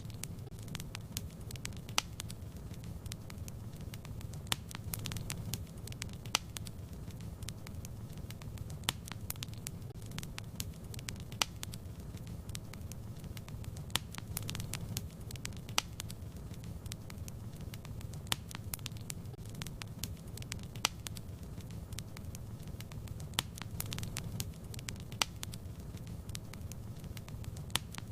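Wood fire burning in a fireplace: a steady low rumble of flames with frequent, irregular crackles and a few louder pops.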